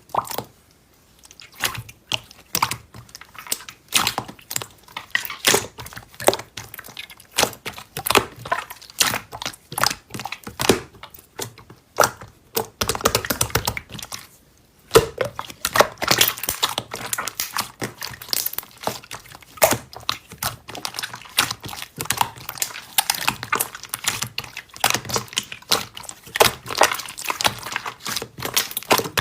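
Slime being squeezed and poked by hand, a dense irregular stream of sticky clicks and crackles, with two short pauses.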